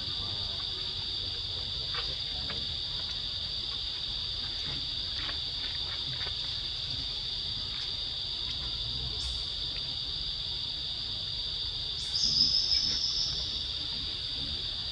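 A steady, high-pitched insect chorus drones all the way through. About twelve seconds in, a second, louder insect buzz starts suddenly and fades out over a second or so.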